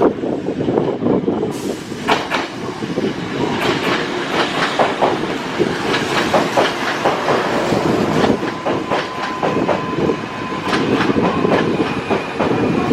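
Kintetsu electric train running through the station, loud and steady, its wheels clacking over the rail joints again and again. A thin steady whine joins in from the middle for a few seconds.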